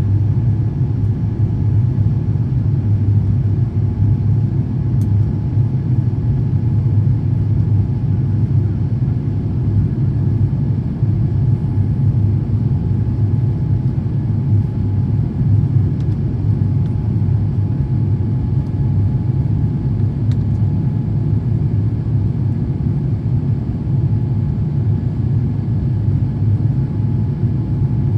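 Airbus A350-1000 cabin noise: a steady low rumble from its Rolls-Royce Trent XWB-97 engines, with a faint constant hum over it.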